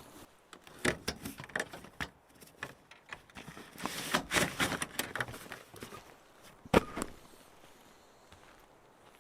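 Irregular handling noises: scattered knocks, clicks and rustling, the loudest a single sharp knock about seven seconds in.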